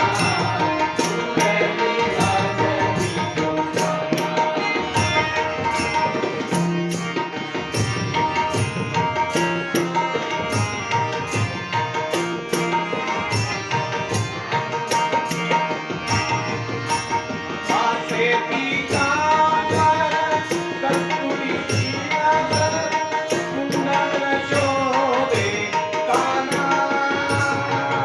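Devotional bhajan music, a gavlan: a hand drum plays a steady beat with small cymbals ticking in time, under sustained melodic tones. A singing voice holds long, gliding lines in the second half.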